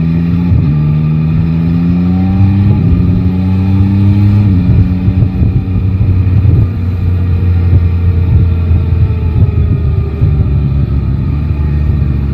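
Yamaha Tracer 9 GT's inline-three engine accelerating through the gears, with three quick upshifts in the first few seconds. It then holds a steady speed, and the revs sink slowly as the rider eases off.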